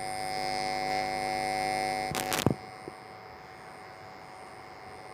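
Electrical buzz from a faulty microphone: a steady buzz that cuts off with a few sharp clicks about two and a half seconds in, leaving a faint steady hiss.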